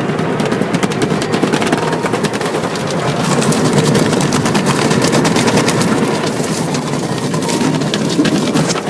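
Car wash working over a car: a dense, rapid drumming of many small hits over a steady rushing noise, growing louder about three seconds in.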